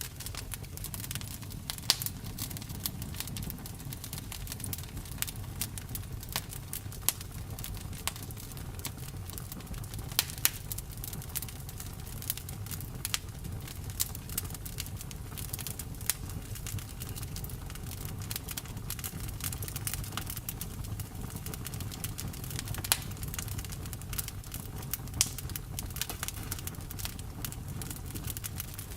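Campfire burning: wood crackling and popping in irregular sharp snaps, a few each second with some louder pops, over a steady low rumble of flames.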